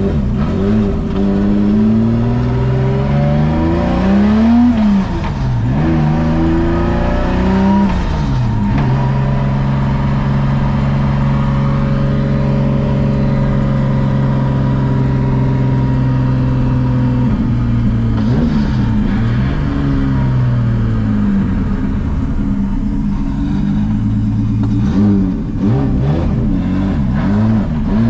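Skyline drift car's engine pulling up through the revs and dropping at gear changes about five and eight seconds in. It then holds a steady note for several seconds before rising and falling again.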